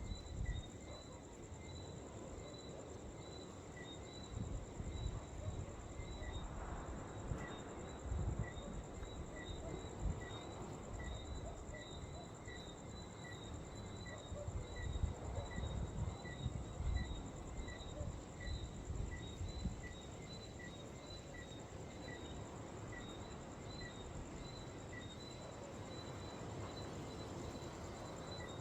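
Insects calling: a steady high-pitched buzz with a regular chirp about once a second over it. Wind buffets the microphone in low gusts, strongest in the first two thirds.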